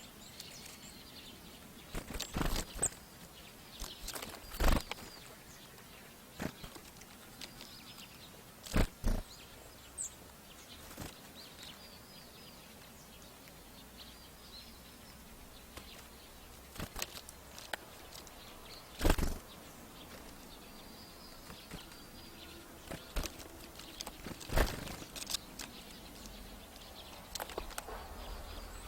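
Small birds at a hanging plastic-cup seed feeder: scattered short, sharp flutters and knocks as they land, take off and feed, with faint high chirps in between.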